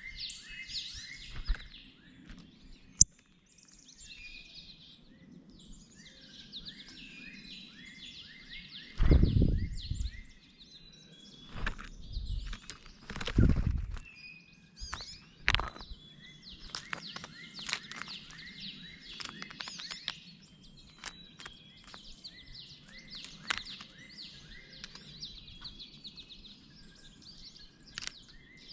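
Wild birds chirping and calling, with many short, high notes throughout. A few loud, low rumbling bumps come about a third of the way in and again soon after, and one sharp click comes early.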